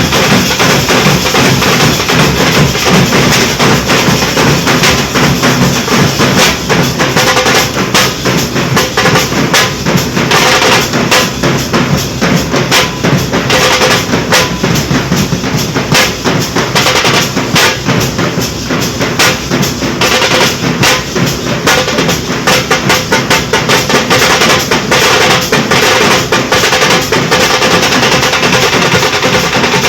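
Nashik dhol drums played loudly in a dense, unbroken stream of strokes.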